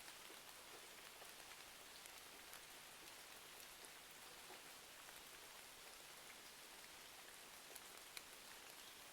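Faint, steady rain with scattered small ticks of drops.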